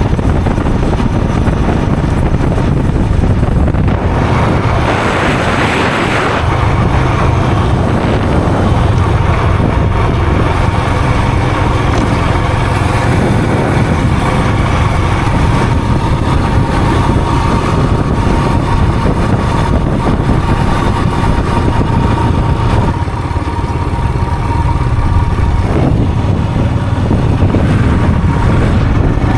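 Steady vehicle engine and road noise, a continuous loud rumble with some wind, from a vehicle travelling along a road.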